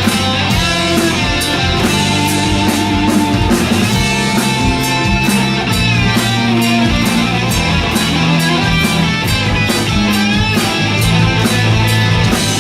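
Live hard rock band playing: distorted electric guitar over bass and a drum kit keeping a steady beat.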